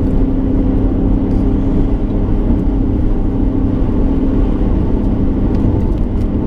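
Car driving, heard from inside the cabin: a steady low rumble of engine and road noise with a constant hum.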